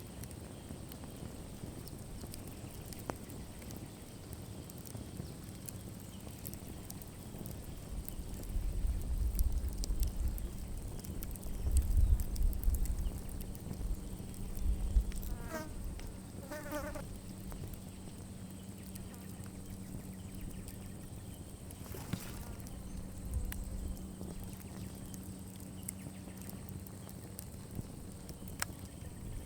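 Campfire burning down with scattered small crackles and pops over a steady low hum. A spell of low rumbling comes about a third of the way in, and two short runs of chirping around the middle.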